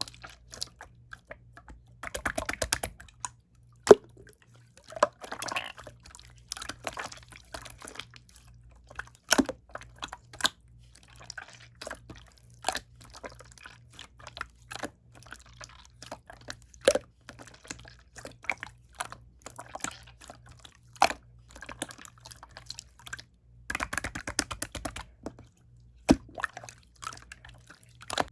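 Light-blue clear slime being squished and poked by hand: irregular sharp clicks and pops, with denser sticky crackling runs about two seconds in and again near the end.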